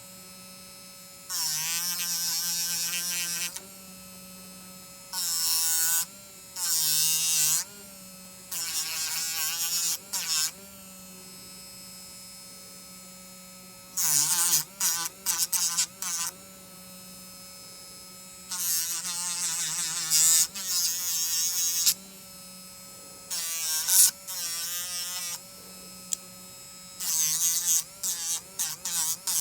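A jeweller's small rotary tool running with a steady whine, broken by about eight bursts of harsh high-pitched grinding, each lasting one to three seconds, as the bit works against metal. The tool's pitch sags under load during each burst.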